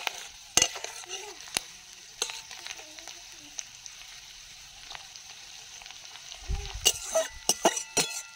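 Sliced onions frying in mustard oil in a metal wok, a steady sizzle. A metal spatula scrapes and clinks against the pan a few times, and more often near the end.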